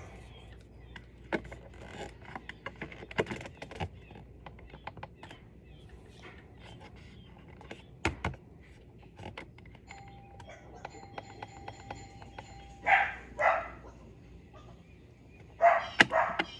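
A dog barking: two barks about thirteen seconds in and a few more near the end, over scattered clicks and taps of hands and tools at work. A steady electronic tone sounds for about two seconds shortly before the first barks.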